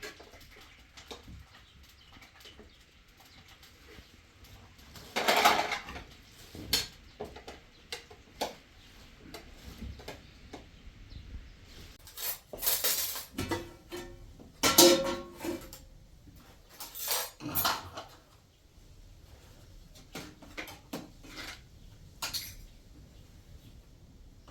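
Dishes and cutlery clattering and scraping in scattered bursts, loudest about five seconds in and again around fifteen seconds in.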